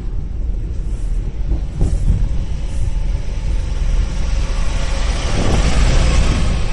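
Car driving along: a steady low rumble of engine and road noise, with a hiss of tyre and wind noise that grows louder over the last couple of seconds as the car gathers speed.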